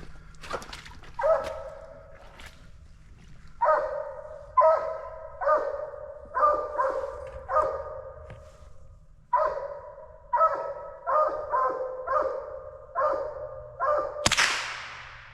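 Coonhound barking repeatedly, short barks about one a second, with a brief pause midway. Near the end comes a single sudden loud crack that rings out for about a second.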